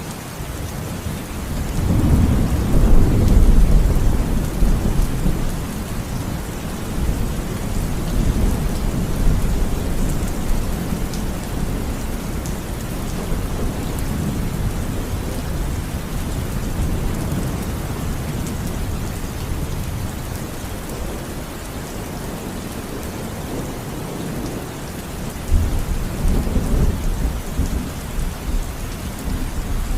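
Steady rain with rolling thunder. A long low rumble builds about two seconds in, and another rumble starts suddenly near the end.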